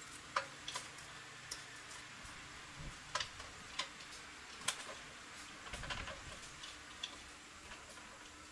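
Light, irregular metallic clicks and taps of small tools and parts being handled, with a couple of dull low thumps among them.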